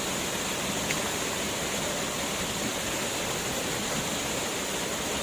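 Waterfall rushing steadily, a constant dense hiss of falling water.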